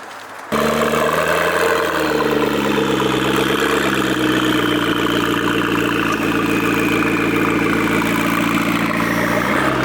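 The tuned McLaren MP4-12C's twin-turbo V8 idling loudly and steadily, its note drifting slightly in pitch. It cuts in abruptly about half a second in.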